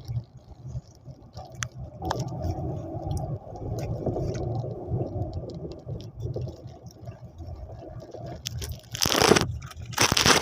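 Road and engine noise inside a moving car's cabin, a steady low rumble, with a short loud rustling burst near the end.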